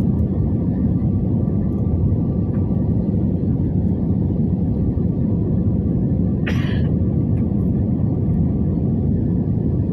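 Steady low rumble of a Batik Air airliner during landing, heard from inside the cabin, with one brief sharper noise about six and a half seconds in.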